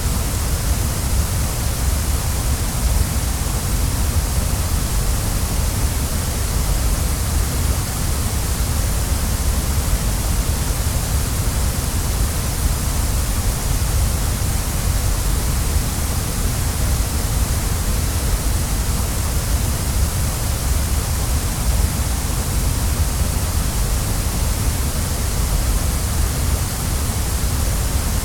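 Waterfall: a steady, unbroken rush of falling water, with a deep low rumble under a bright hiss.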